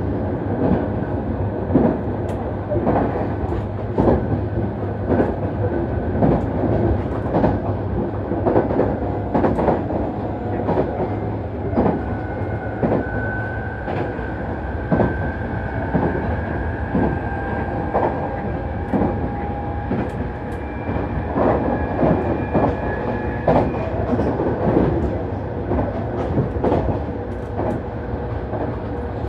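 Nankai Main Line express electric train running, with a steady rumble and wheels clicking over rail joints. A faint whine shifts slowly in pitch.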